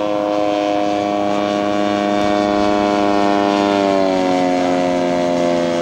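Radio-controlled scale model airplane's engine running steadily as it flies a go-around, its pitch dropping slightly about four seconds in.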